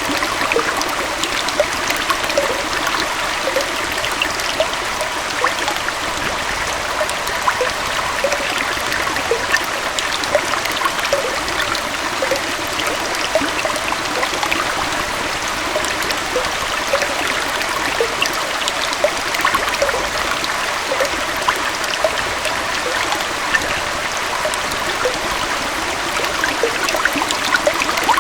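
Small waterfall and stream flowing steadily, a continuous rush of water with many small splashes and trickles.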